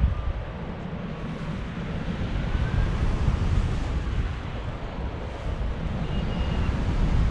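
Strong wind buffeting the microphone in flight, a gusting low rumble that rises and falls. Faint thin whistling tones glide in pitch over it, and a short higher tone comes about six seconds in.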